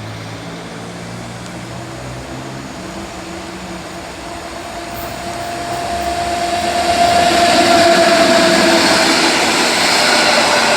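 EU07 electric locomotive hauling a passenger train as it approaches, the running noise growing steadily louder from about five seconds in, with a steady high tone over it in the second half.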